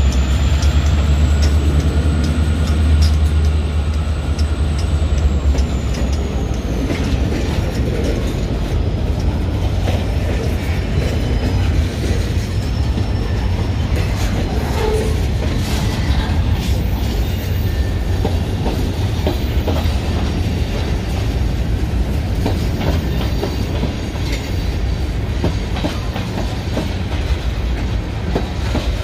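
Freight train passing close by. The diesel locomotives' low engine rumble fades over the first several seconds as they draw away, and a faint high whine drops in pitch. Then boxcars and tank cars roll past with steady wheel noise and clickety-clack over the rail joints.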